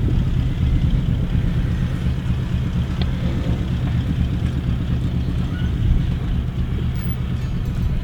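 4WD vehicle driving on soft sand: a steady, loud, low engine and drivetrain rumble.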